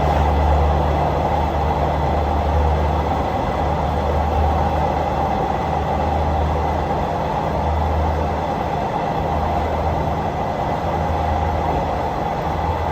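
Passenger train running along the track, a steady rumble with a strong low drone that swells and eases slightly.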